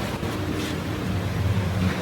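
An engine or machine motor running with a low rumbling hum, which grows stronger near the end.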